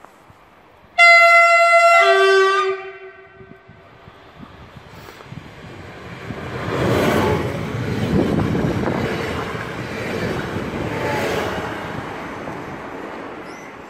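An approaching passenger train sounds its two-tone horn, a higher note for about a second and then a lower note. Its wheels then rumble past on the rails, swelling as the train draws level and easing off near the end.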